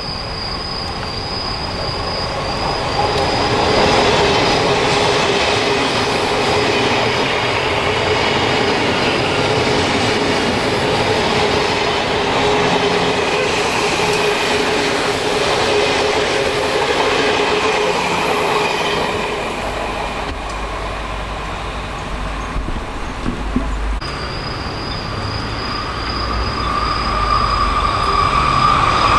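Odakyu 3000 series electric commuter train passing close by at speed: a steady rush of wheels on rail and running gear with a steady tone over it, swelling about four seconds in and easing off after about nineteen seconds. A second train is heard approaching and getting louder near the end.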